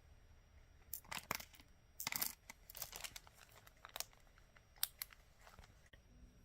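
Small plastic bead bags being handled, with crinkling of the plastic and scattered light clicks of glass beads, in a few short bursts.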